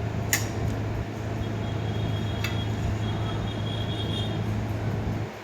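TVS Ronin 225 single-cylinder engine running steadily, with a sharp click about a third of a second in and another about two and a half seconds in, and a faint high whine through the middle.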